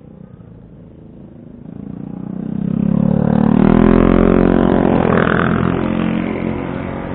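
Motorcycle engine running under throttle, building to its loudest about four seconds in and then slowly easing off.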